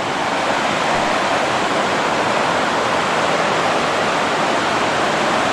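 Buttermilk Falls, a waterfall rushing steadily over rocks, close to the microphone.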